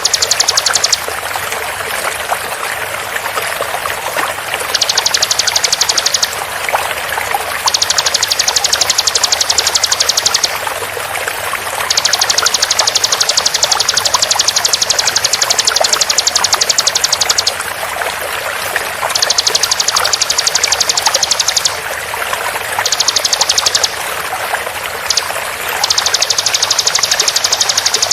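Bar-winged prinia (ciblek) singing its rapid, high-pitched 'tembakan' trill in repeated bursts of one to five seconds, over a steady sound of flowing water.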